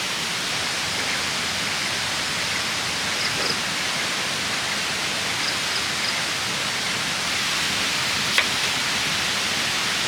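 Steady hiss of rushing water. Faint short high chirps come twice, and a single sharp click comes near the end.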